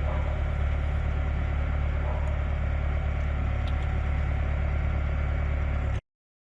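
A motor running steadily at idle, a low even hum with no change in speed; it cuts off abruptly about six seconds in.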